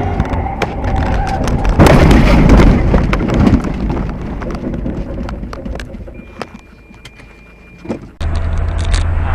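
Car crash recorded on a dashcam: road noise, then about two seconds in a loud collision impact with a second or so of crunching and scraping, fading to quieter noise with scattered knocks. Near the end it cuts abruptly to a steady, low vehicle engine hum.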